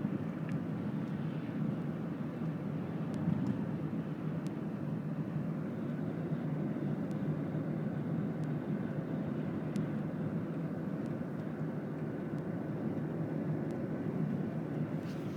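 Steady car road noise heard from inside the cabin while driving: an even low rumble of tyres and engine, with a few faint scattered ticks.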